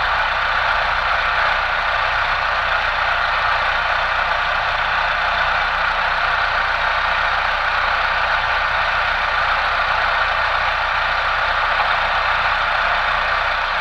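Chevrolet Tornado's 1.8-litre four-cylinder engine idling steadily, just after its throttle body has been cleaned and refitted.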